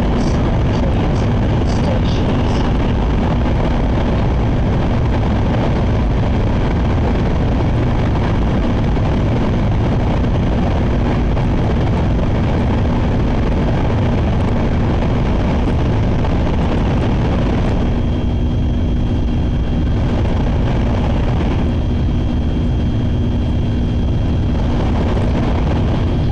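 Steady running noise of a Sakura shinkansen train at speed, heard inside the car: a constant low rumble and hiss with a steady hum. The hiss eases off briefly about 18 seconds in and again a few seconds later.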